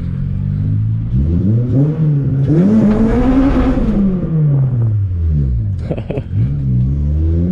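Toyota Corolla T-Sport's four-cylinder engine accelerating. Its pitch climbs to a peak about three seconds in, falls back as the driver comes off the throttle, then rises again near the end.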